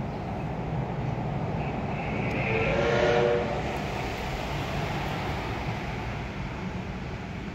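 Steady rumble of a running train, with a brief train horn sounding for under a second about three seconds in.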